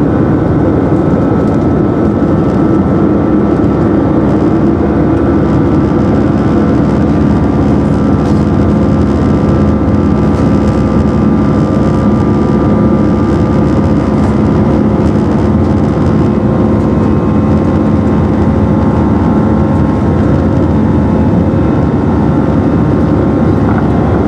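Cabin noise inside an Airbus A319 airliner climbing after takeoff: a loud, steady roar of the jet engines and rushing air, with several steady humming tones underneath.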